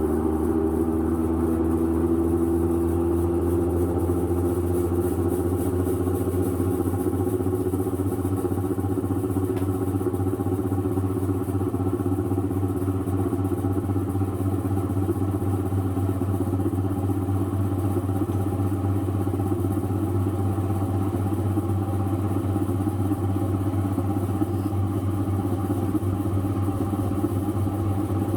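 Motorized 8-frame honey extractor spinning loaded honeycomb frames, a steady mechanical hum whose pitch rises a little over the first few seconds as it comes up to speed, then holds. The spin flings honey out of the uncapped combs by centrifugal force.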